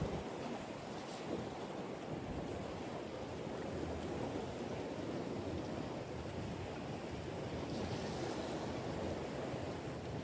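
Steady wash of wind and surf by the water: a continuous even noise with no distinct events.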